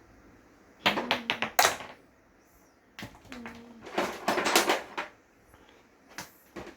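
Hard plastic toy dinosaurs clattering and knocking against each other and a surface in two quick bursts of clicks, each led by a short low hum.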